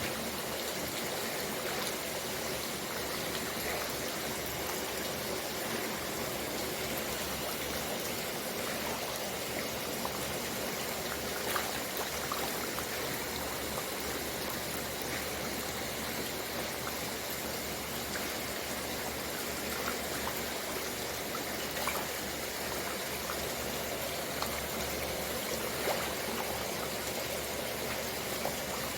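Steady rushing water noise, with a few short, sharp splashes or ticks standing out over it, one about a third of the way in and two in the last third.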